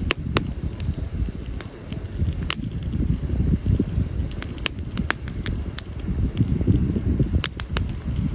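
Wood campfire crackling: irregular sharp pops and snaps, more than a dozen, the loudest about two and a half seconds in, over a fluctuating low rumble.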